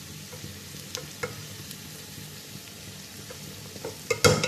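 Okra frying in spiced oil in a metal pot: a steady sizzle with a few light spoon clicks, the okra nearly done. Just before the end a metal spoon knocks and scrapes loudly against the pot as stirring begins.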